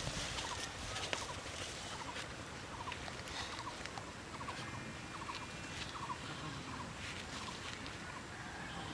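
Quail calling: short runs of quick, rapid chirps repeated about once a second, with scattered sharp clicks and rustling, mostly in the first half.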